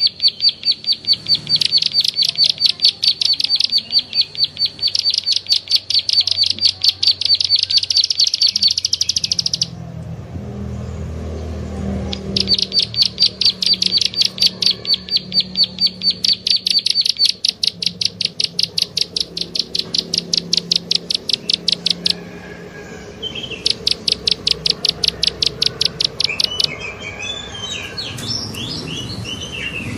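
Bird lure call ('klik-klik' pikat sound): long runs of fast, evenly repeated high clicking chirps in bouts separated by short pauses, with a run of varied gliding notes near the end.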